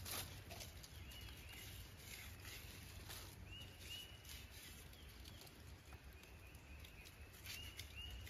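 Faint woodland ambience: a low rumble of wind with a bird's short, thin calls repeating every second or two.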